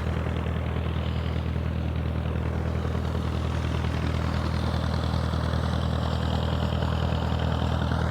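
Perkins four-cylinder diesel engine running steadily with an even low throb, driving a coupled 150/315 centrifugal water pump.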